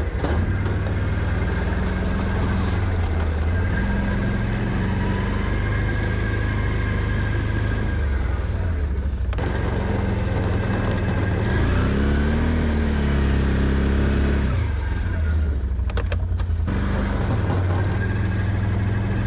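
Can-Am Outlander 650 ATV's V-twin engine running steadily while plowing snow, its revs rising and falling about twelve seconds in.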